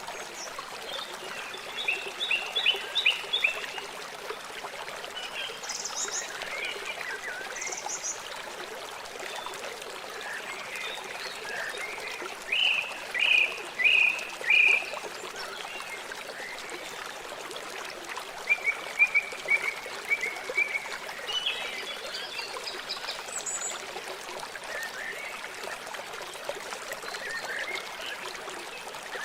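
River water flowing steadily, with short chirping animal calls over it in brief series, the loudest a run of four clear notes about halfway through.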